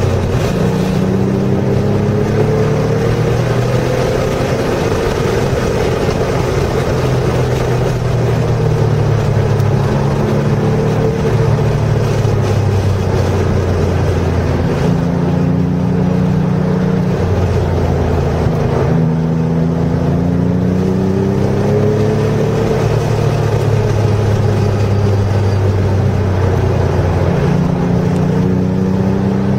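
Porsche engine heard from inside the car at track speed, its revs climbing and dropping back several times as it accelerates out of corners and shifts or lifts, over steady road and wind noise.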